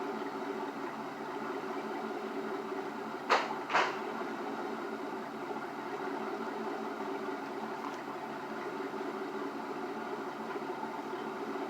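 Pickup truck engine idling steadily, with two sharp clicks about three and a half seconds in, half a second apart.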